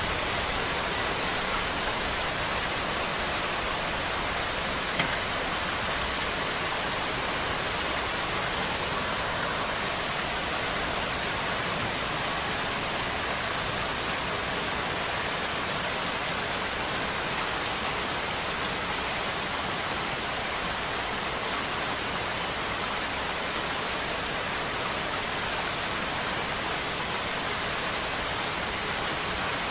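Steady rainfall: an even hiss of rain falling on a surface, with one brief, sharper tick about five seconds in.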